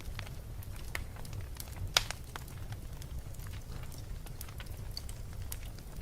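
Wood fire burning in a fireplace, with a low steady rumble of flame and scattered crackles and pops, the sharpest pop about two seconds in.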